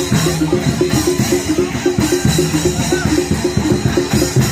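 Javanese gamelan music accompanying a Barongan dance: drums with a fast, evenly repeating figure of short struck pitched notes, playing steadily.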